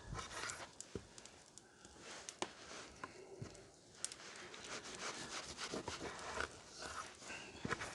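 Knife cutting pork on a wooden cutting board: scraping strokes with scattered light knocks of the blade on the board.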